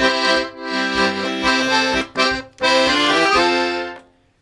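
Accordion playing a passage of sustained melody notes over low bass notes, with brief breaks between phrases; the playing stops about four seconds in.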